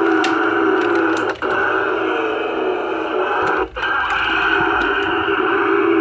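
Tinny electronic music and sound effects from a battery-powered toy's small built-in speaker, playing continuously with two brief dropouts.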